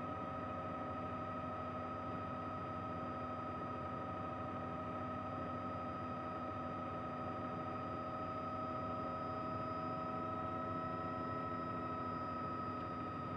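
Helicopter running steadily in flight: a constant whine of several fixed tones over an even rushing noise.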